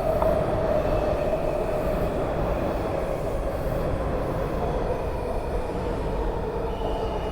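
Washington Metro Red Line train pulling into the station, its wheels rumbling on the rails under a steady whine; a higher squeal joins near the end as it slows.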